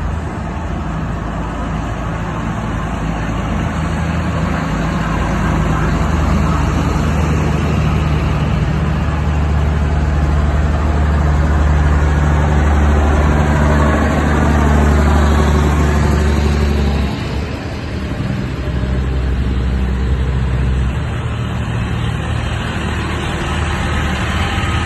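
Tractor engine running with a steady low hum. About halfway through it grows louder with a sweeping change in pitch, as from a vehicle going by. A little after two thirds of the way in the low hum drops away briefly.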